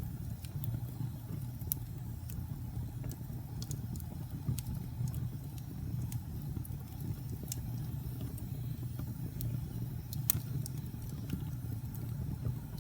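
Fire in a fireplace burning with a steady low rumble and scattered sharp crackles and pops, the loudest pop about ten seconds in.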